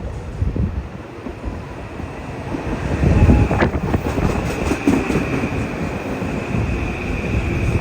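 Train passing at speed, its rumble growing louder about three seconds in, with a steady high whine and a sharp click partway through.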